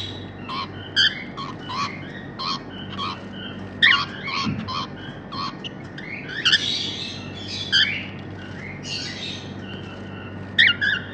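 Pair of grey cockatiels calling: a run of short chirps and whistles, a few a second, broken by louder, harsher squawks.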